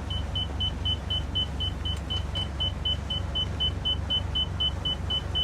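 Electronic alarm beeping rapidly and evenly at about four short high beeps a second, over the steady low drone of the yacht's engine. This is typical of a depth sounder's shallow-water alarm going off while the boat is in shallow water at low tide.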